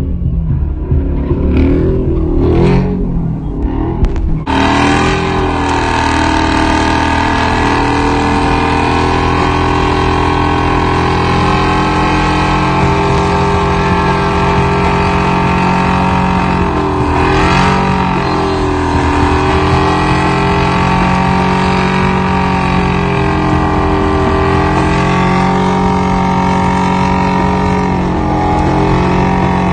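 Vehicle engine held at high revs, loud and steady for a long stretch, its pitch dipping and recovering once about two-thirds of the way through. The first few seconds are choppier, with revs rising and falling before a sudden switch to the steady sound.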